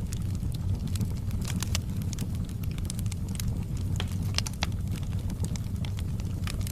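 Wood fire burning, with a steady low rumble and irregular sharp crackles and pops, several a second; a louder pop comes about four and a half seconds in.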